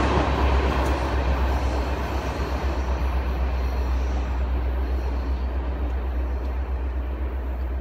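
Freight train rolling away from the crossing, the noise of its wheels on the rails slowly fading, over a steady deep rumble.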